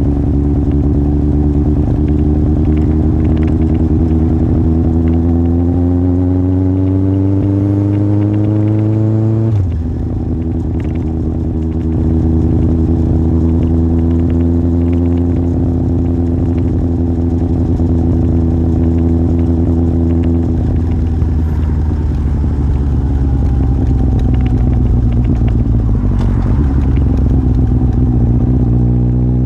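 Yamaha Fazer 1000's inline-four engine through a MIVV aftermarket exhaust while riding. The pitch climbs steadily for about nine seconds and drops suddenly, then holds steady. About two-thirds through it falls away slowly as the bike slows, and it picks up again at the end.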